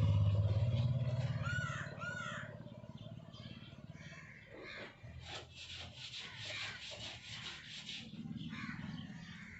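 A motorcycle engine hums and fades away over the first two seconds, and a bird calls two or three short chirps. Then come faint, rapid scratching and rubbing clicks of fingers working through long hair to pick out nits.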